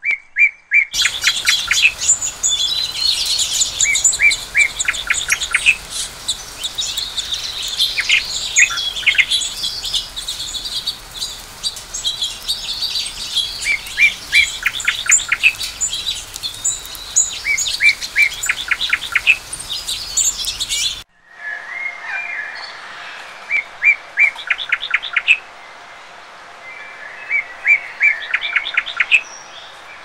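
A chorus of songbirds singing and chirping, with many quick trills of rapidly repeated notes and higher whistled calls over a steady background hiss. About two-thirds of the way through the sound cuts to a quieter passage with fewer birds and only occasional short trills.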